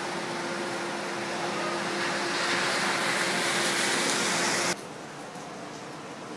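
Heavy rain hissing steadily, growing louder about two seconds in, then cutting off abruptly to a quieter rain hiss near the end.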